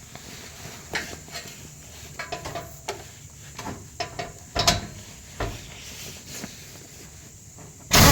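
Scattered clicks and knocks of hand tools and sockets on metal exhaust hardware while muffler bolts are worked on, with a stronger knock about halfway through and a sudden loud burst of noise right at the end.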